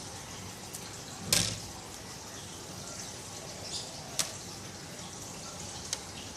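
Hands handling twine and beads: soft rustles and a few short clicks or knocks, the loudest about a second in, over a steady background hiss.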